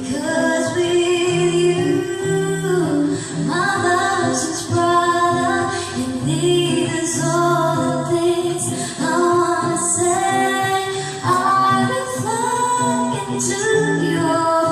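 A female voice singing a song with instrumental accompaniment, holding sustained melodic notes over a steady bass line.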